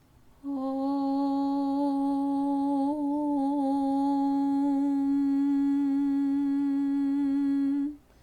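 A single voice chanting one long, steady Om, starting about half a second in and held at one pitch for about seven and a half seconds, wavering slightly partway through.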